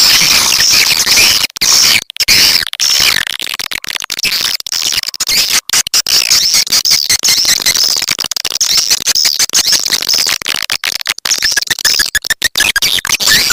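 A dense, continuous twittering of swiftlets: a swiftlet lure-call recording ('walet petir' style) of the kind played to draw swiftlets into a nesting house. Many brief, sharp cuts break the flow of chirps.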